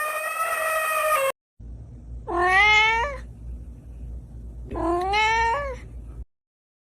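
Domestic cat meowing twice, each meow about a second long and rising in pitch, with a low hum under them. Before that, a different steady pitched sound ends abruptly.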